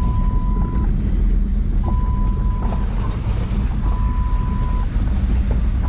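Ford Ranger pickup driving along a flooded dirt trail, a steady low engine and road rumble. Over it a steady electronic beep, each about a second long, sounds about every two seconds.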